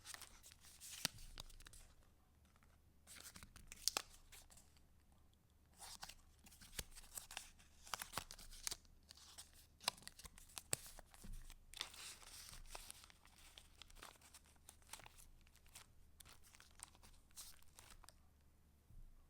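Paper of a handmade junk journal being handled and its pages turned: intermittent crinkling and rustling with sharp, crisp snaps, quieter near the end.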